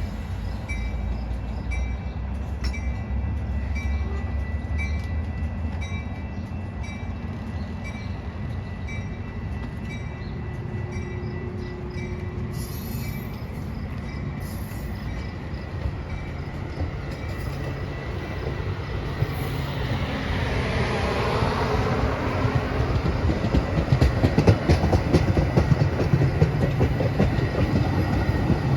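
A train running on the tracks, its rumble building in the second half into loud rapid wheel clatter as it passes close. Through the first several seconds a short high ding repeats about one and a half times a second.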